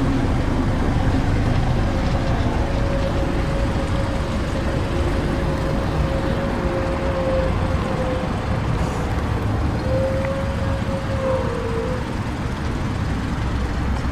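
Mazda 6 idling, heard at the rear by its dual exhaust tips: a steady low rumble, with a thin steady tone in it for a few seconds around the middle and again briefly later.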